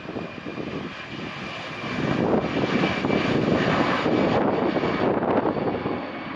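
Jet airliner engines running, getting louder about two seconds in, with a faint steady high whine over the noise.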